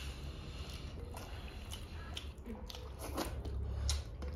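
Close-up chewing and biting of food, with short wet mouth clicks, over a steady low hum.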